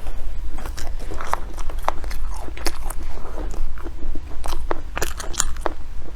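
A person biting and chewing bread close to the microphone: a run of irregular short crunches and crackles, over a steady low hum.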